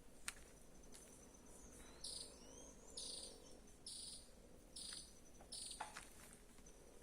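An insect calling in the woods: five short, buzzy, high-pitched chirps about a second apart, over a faint steady high whine of other insects.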